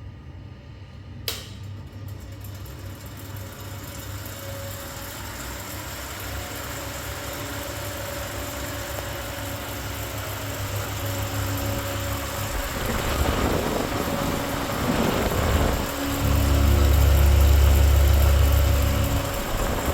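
An electric fan switched on with a click about a second in, then spinning up, its whir and motor hum growing steadily louder. Later, the fan's airflow buffets the microphone with a heavy, gusty rumble.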